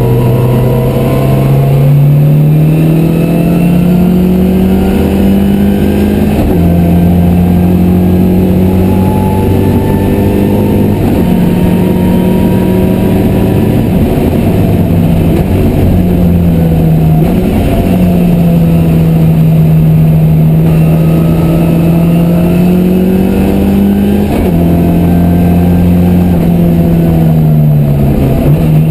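Ford Zetec four-cylinder engine in a Mk1 Ford Escort running hard on track, heard on board. The revs climb and fall continuously, with several sudden shifts in pitch as it changes gear.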